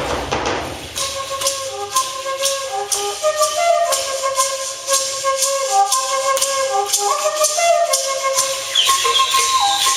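Flute playing a slow melody of held notes over a steady beat of rattle or maraca shakes, with the melody coming in about a second in.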